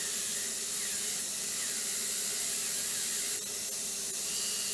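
Dental low-speed handpiece running steadily with a finishing disc, contouring and smoothing a composite restoration; a steady hiss with a faint hum.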